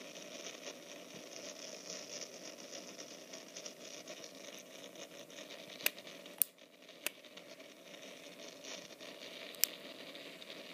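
Steady rushing wind noise with irregular pattering, broken by four short sharp clicks in the second half.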